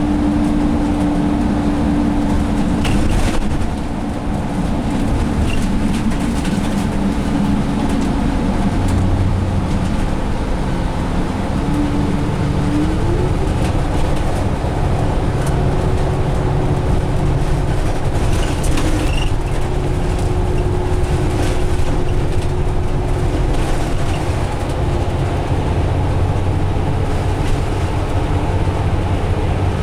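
Interior noise of a 2017 Alexander Dennis Enviro500 double-decker bus with a Cummins ISL diesel, cruising: a steady rumble of road and engine. A humming tone dips about four seconds in and climbs again around twelve seconds in.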